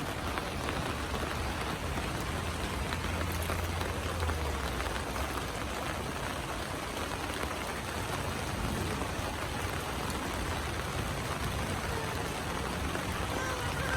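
Steady rain falling, an even hiss of drops, with a low rumble under it for the first few seconds.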